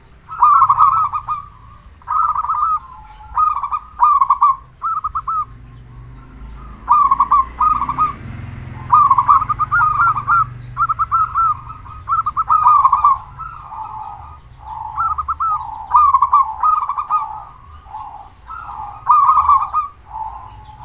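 Local perkutut (zebra dove) singing in full voice: phrase after phrase of short, rolling coos, with only brief gaps between them.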